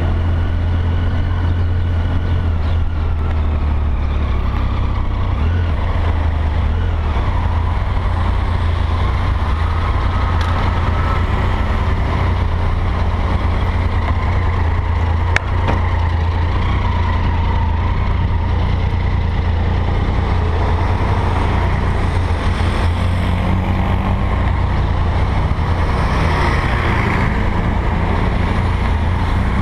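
A Triumph Tiger motorcycle's three-cylinder engine running steadily under way, heard close up from a camera on the bike, with a constant deep rumble of engine and road noise.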